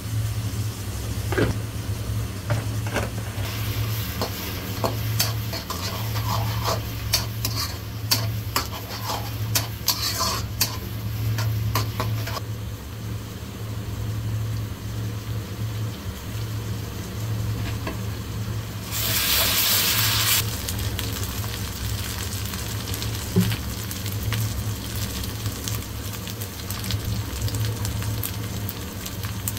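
Sliced onions sizzling in hot oil in a wok, with a wooden spatula clicking and scraping against the pan over the first dozen seconds. A louder burst of sizzling comes about 19 seconds in, over a low steady hum.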